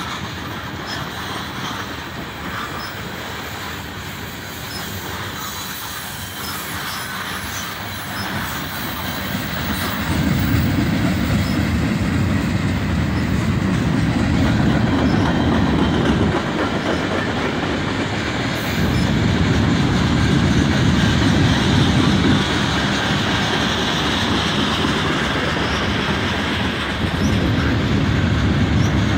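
Freight cars (tank cars and boxcars) rolling past close by: a steady rumble and clatter of steel wheels on the rails, getting louder about ten seconds in.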